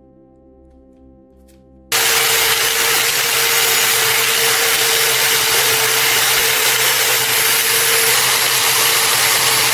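An electric power tool grinding or sanding the rusted steel of an old knife blade. It cuts in suddenly about two seconds in and runs loud and steady with a constant motor hum.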